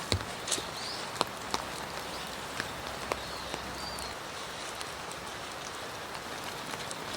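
Steady rain hissing, with single drops tapping sharply on a nearby surface now and then, most of them in the first half.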